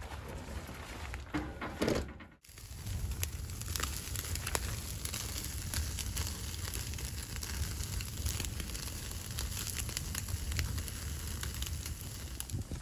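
Wood fire crackling: many small, irregular sharp pops over a steady low rumble. They begin after a brief louder noise and a short dropout about two seconds in.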